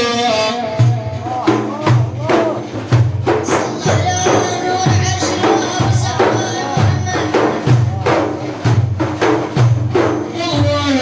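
Religious praise music: frame drums beating a steady rhythm of strokes roughly every half to three-quarters of a second, with a melody carried over them.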